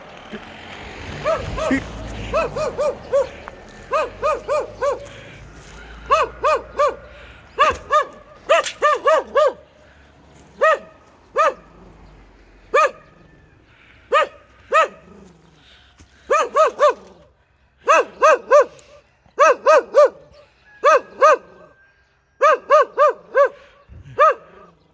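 A dog barking aggressively in quick runs of two to four barks, separated by short pauses.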